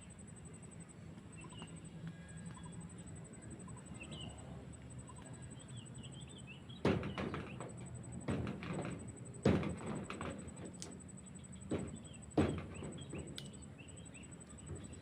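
Small wild birds chirping faintly. In the second half come several sharp knocks or thumps, the loudest three a few seconds apart.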